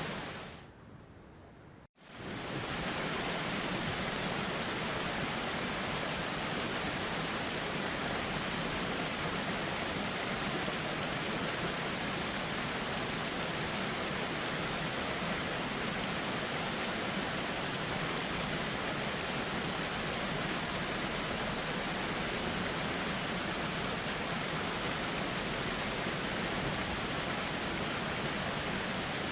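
River water flowing in a steady rush. The sound fades out in the first two seconds, cuts out almost completely, then comes straight back and holds even: the recording looping back to its start.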